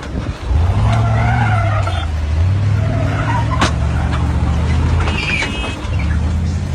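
Vehicle engine running with a steady low hum and road noise, as picked up by a dashcam, with a single sharp click about three and a half seconds in.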